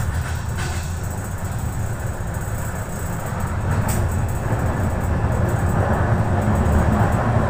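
Passenger express train running at speed, heard at the carriage window: a steady low rumble of the wheels on the track with rushing air noise, growing a little louder about halfway through.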